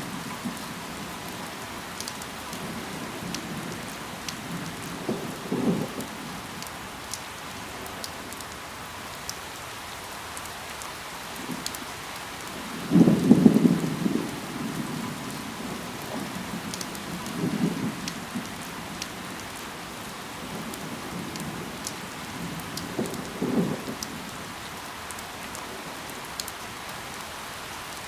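Steady rain falling on leaves, an even hiss with scattered sharp drop ticks. Four short, louder dull bursts stand out, the loudest about halfway through.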